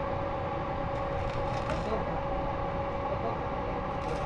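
Electric arc welding on a truck's exhaust pipe: a steady crackling hiss with a constant hum running under it, flaring a little brighter now and then.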